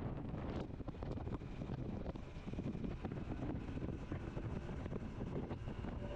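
Honda CT125's single-cylinder engine running while the motorcycle is ridden along a trail, with wind buffeting the microphone.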